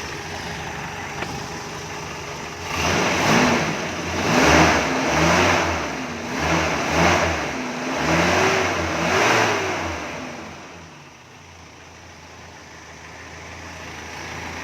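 Car engine revved in about six quick throttle blips, each rising and falling in pitch, then settling back to a steady idle about ten seconds in. The owner found this engine free of intake vacuum leaks.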